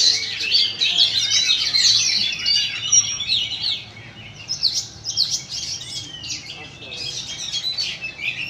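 Several caged oriental magpie-robins singing at once, a dense mix of rapid whistles, trills and chattering notes. The chorus is thick for the first three or so seconds, then thins to scattered phrases.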